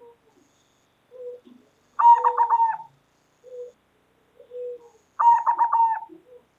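Zebra dove (perkutut) cooing: soft single low coos, broken twice by a louder quick run of staccato cooing notes.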